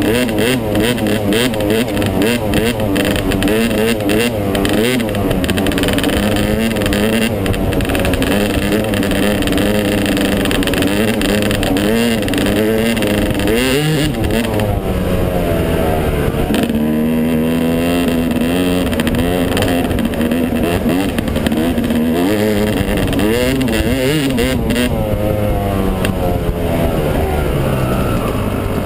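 Yamaha 250 dirt bike engine being ridden, revving up and down over and over, its pitch rising and falling every second or two.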